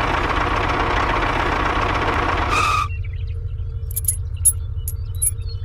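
A small motor, of the kind on a homemade miniature tractor, runs steadily and cuts off suddenly about three seconds in. A low hum with scattered light clicks and ticks follows.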